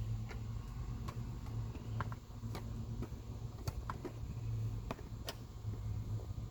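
Scattered light clicks and taps of parts and tools being handled while refitting pieces in a car's engine bay, irregular and spaced about half a second to a second apart, over a steady low hum.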